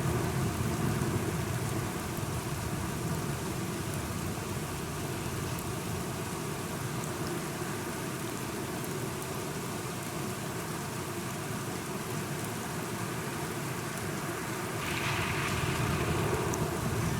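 Steady rainfall with a low rumble underneath, louder in the first couple of seconds; about fifteen seconds in, the hiss grows brighter and louder for the rest of the stretch.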